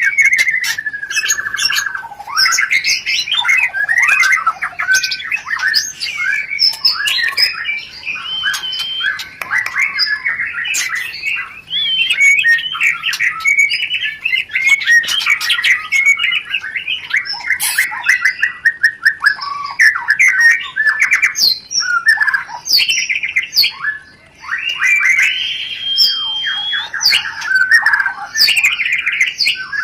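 White-rumped shama (murai batu) singing a rapid, nearly unbroken stream of chattering notes, trills and whistled glides: the 'rencetan' song of a bird in breeding condition.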